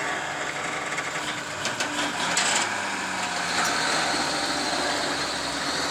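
A vehicle engine running steadily under a noisy hiss, with a faint higher steady tone coming in about halfway through.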